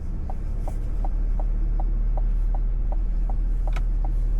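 Chevy Tahoe's in-cabin signal ticking steadily, about two and a half short ticks a second, over a low steady hum of the idling SUV.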